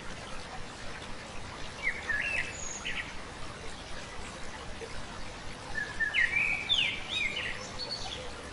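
A small songbird sings two short phrases of quick up-and-down chirping notes, about two seconds in and again about six seconds in, over the steady rush of a flowing stream.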